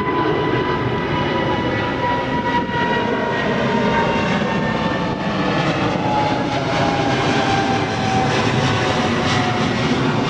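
Airliner's jet engines running loud and steady as it passes, with a whine that slowly falls in pitch.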